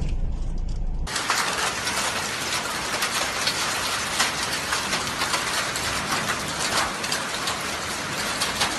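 Windstorm recording: a low wind rumble on the microphone cuts suddenly, about a second in, to a dense, hissing storm noise full of fine crackling patter that keeps up steadily.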